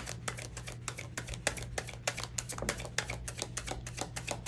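Tarot deck being shuffled by hand: a rapid, irregular run of card clicks and flicks, several a second, over a low steady hum.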